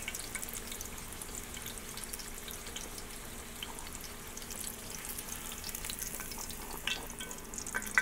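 Fry bread dough frying in hot canola oil in a cast-iron skillet: a steady sizzle with fine crackling pops. A couple of light clicks near the end.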